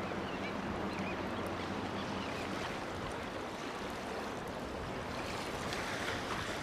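Dense, continuous wash of a nesting seabird colony of Heermann's gulls and terns calling, with a few separate calls standing out early and a low steady hum beneath that fades about halfway.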